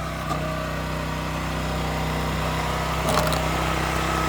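Gas engine of a Wolfe Ridge 22 RS log splitter running steadily, getting a little louder toward the end. A couple of light knocks can be heard over it.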